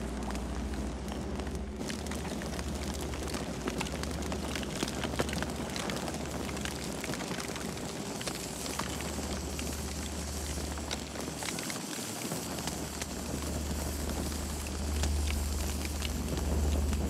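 Campfire crackling with many small pops and snaps over a steady low rumble.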